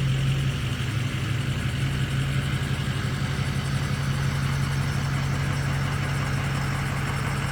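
Ford 6.0 Power Stroke V8 turbodiesel idling steadily, a low even hum.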